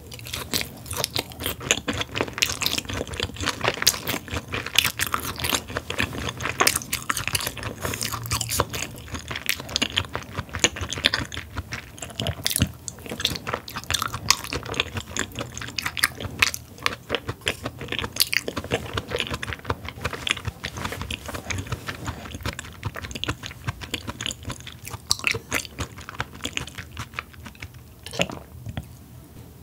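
Close-miked chewing of Korean raw beef (yukhoe), a dense run of quick mouth clicks that keeps going with no pause and eases slightly near the end.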